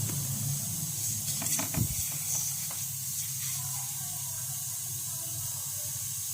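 Refrigerator compressor running with a steady low hum under a steady hiss, during a test of a newly brazed capillary tube for leaks and blockage. A few short knocks come between one and two seconds in.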